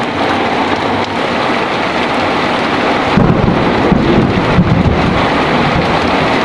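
Heavy rain falling steadily, with a roll of thunder rumbling for about two seconds about halfway through.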